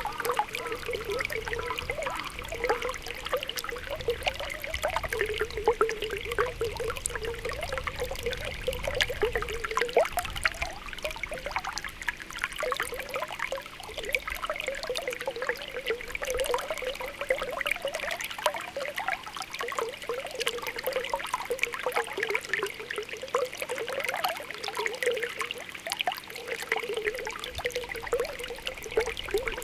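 Spring water welling up from the ground, bubbling and trickling with a continuous patter of small pops (pokopoko).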